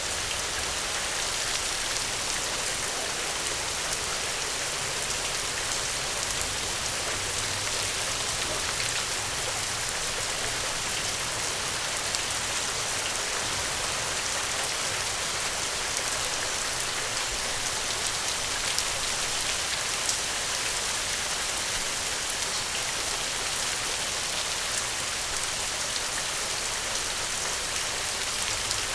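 Steady gentle rain falling, a constant even hiss with faint scattered drop ticks.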